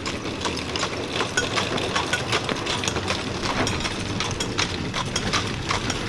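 An engine idling, with a steady low hum and a fast, busy ticking over it.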